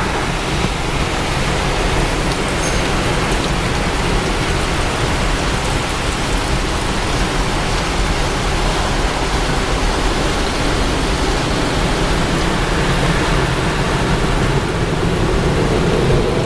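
Car wash water jets spraying onto the car, heard from inside the cabin: a steady, rain-like rush of water on the body and glass.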